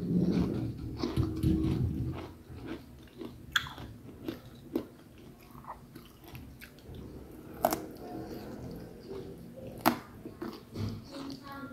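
Close-miked chewing and biting of boiled broccoli, loudest and densest in the first two seconds, with softer crunches and a few sharp clicks after.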